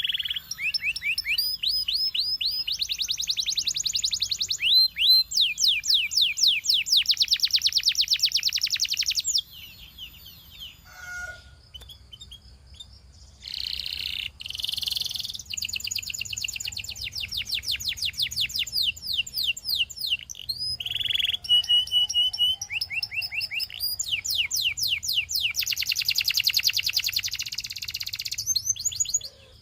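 Belgian singing canary singing in long, fast trills of repeated high sweeping notes. The song breaks off for a few seconds about a third of the way in, then resumes.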